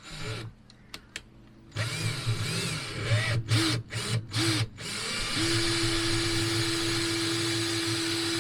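Power drill driving a four-inch screw into old deck framing. There are several short trigger pulls from about two seconds in, then a steady run from about five seconds in.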